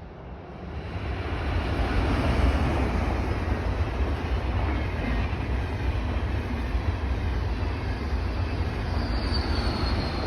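A train passing close by at speed: a rushing din of wheels on rails and air that swells over the first couple of seconds and then holds steady. A thin, high wheel squeal rises near the end.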